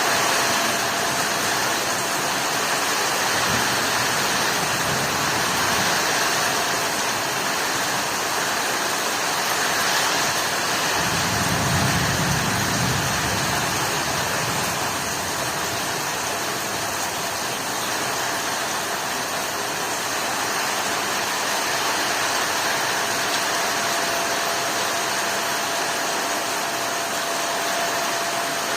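Heavy rain pouring steadily, with a low rumble swelling for a few seconds about halfway through.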